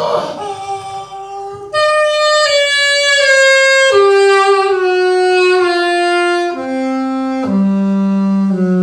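Saxophone playing a slow phrase of long held notes that mostly step downward, ending on a long low note.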